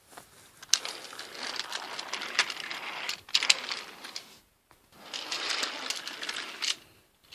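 Toy train rolling along its track, a light rattling whir with small clicks, in two runs with a short pause about four and a half seconds in.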